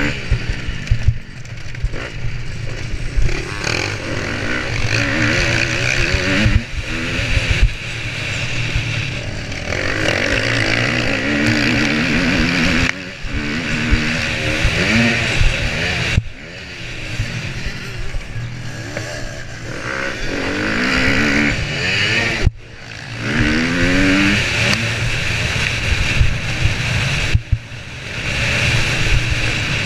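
Motocross bike engine revving hard and rising in pitch again and again as it is worked through the gears. The throttle is snapped shut now and then, so the sound drops suddenly for a moment before climbing again.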